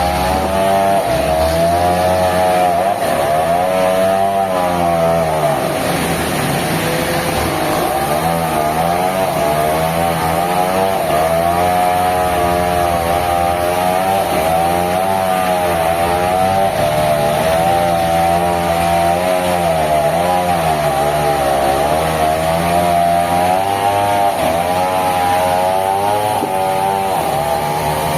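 Engine-driven sawmill saw running, its pitch wavering and dipping repeatedly, most deeply about four seconds in and again near twenty seconds.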